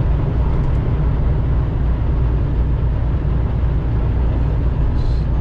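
Steady low drone of a semi-truck's diesel engine and tyre noise heard from inside the cab while driving at road speed.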